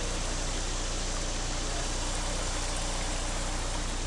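Steady noise inside a moving vehicle: an even hiss over a constant low engine hum.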